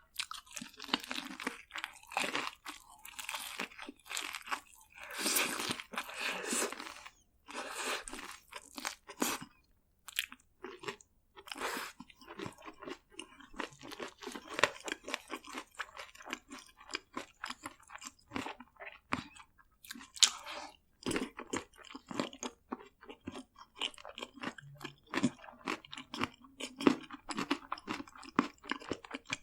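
Close-miked crunching and chewing of seasoned fried food, BHC Bburinkle chicken and cheese balls: a run of loud, crackly bites in the first several seconds, then quicker, smaller chewing clicks.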